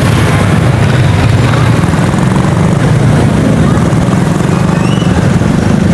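Motorcycle engine running steadily at low speed in stop-and-go traffic, with the din of surrounding vehicles.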